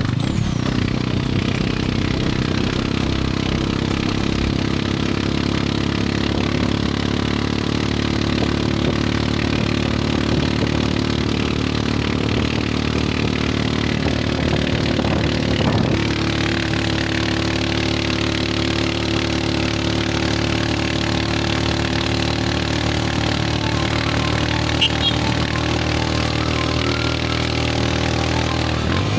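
Small motorcycle's engine running steadily while being ridden, its note shifting about halfway through.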